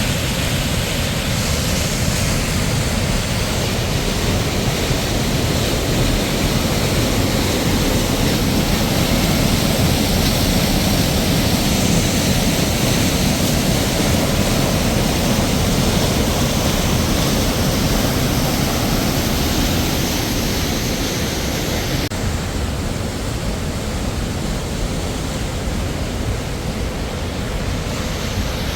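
Waterfall: a loud, steady rush of falling water. The hiss turns duller about three-quarters of the way through.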